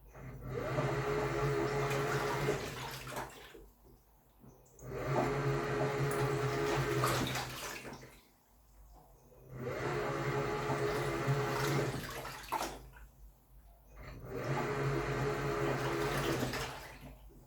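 Samsung Wobble top-loading washing machine in its wash cycle: the motor hums as the pulsator churns the water and comforter in spells of about three seconds, stopping for a second or so between each, about four times.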